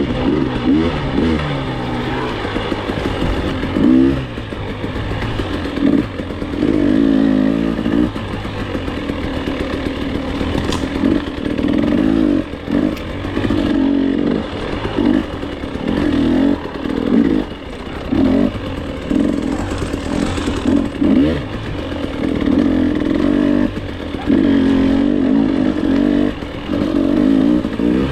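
Dirt bike engine revving up and backing off again and again, a surge every second or two, as the bike is ridden along a trail, with some clattering.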